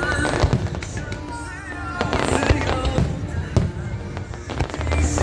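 Aerial fireworks bursting in a rapid series of bangs, with a dense crackling burst about two seconds in, over music playing.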